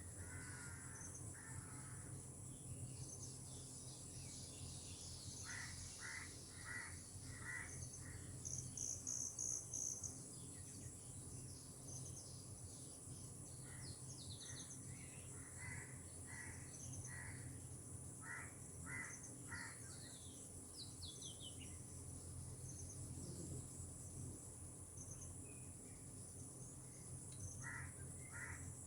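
Birds calling: runs of four or five short, evenly spaced calls repeated several times, with bursts of high chirps and a few falling whistled notes, over a steady high hiss.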